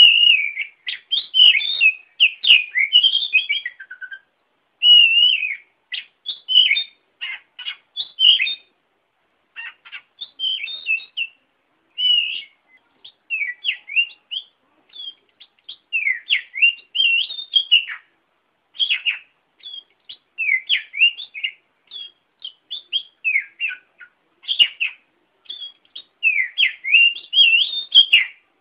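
Oriental magpie-robin (kacer) singing: bursts of quick, varied whistled phrases that slide up and down, broken by short pauses.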